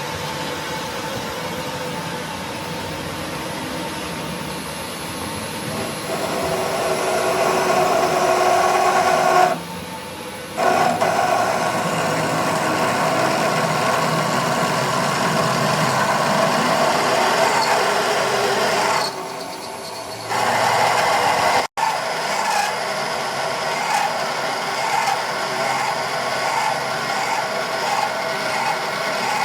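A power tool working metal, a steady, noisy cutting or grinding sound. It drops away briefly about ten seconds in and again about twenty seconds in.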